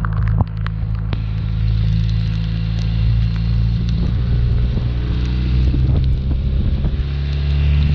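BMW R1200RT motorcycle's boxer-twin engine running steadily at speed, a constant low rumble mixed with wind noise on the microphone. A few sharp ticks come in the first half-second.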